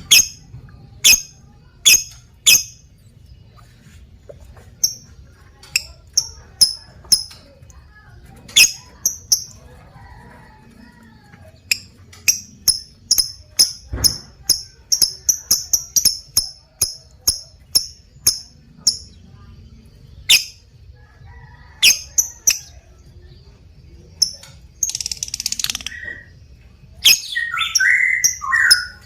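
Lovebird calling with sharp, high-pitched chirps, first spaced out and then in a fast run of several a second. Near the end it breaks into a harsher chattering call that slides in pitch.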